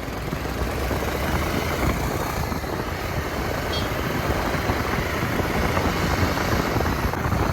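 Steady low rush of wind buffeting the microphone together with a motorcycle running along the road.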